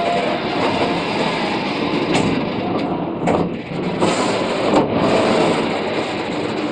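Loaded open-top freight wagons rolling past at close range: steel wheels grinding and rumbling on the rails, with a few sharp knocks as wheels pass over the track.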